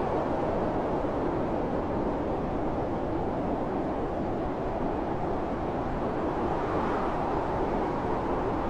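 Blizzard wind blowing hard and steadily: a dense, even rushing with no separate gusts or breaks.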